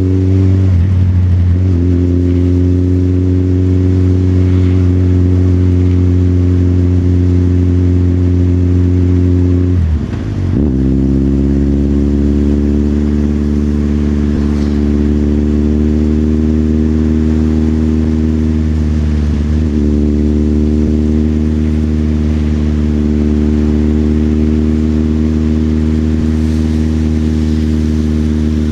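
Motorcycle engine running at a steady cruising pace, its pitch holding even except for three brief breaks where it drops and climbs again: gear changes near the start, about a third of the way through and about two-thirds through.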